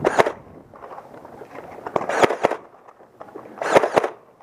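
Foam-dart blaster firing in three short bursts of rapid shots: one at the start, one about two seconds in and one near the end.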